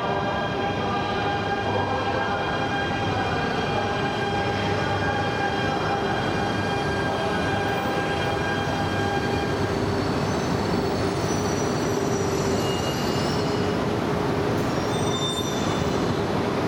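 Coupled E2 and E3 series Shinkansen trains running into a station platform: a steady rumble with a held whining tone, then high squealing tones over the last several seconds as the train slows.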